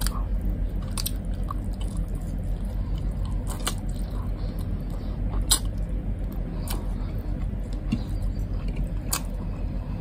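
Close-up chewing of a person eating rice and braised pork by hand, with a few sharp mouth smacks or clicks scattered through it. A steady low hum runs underneath.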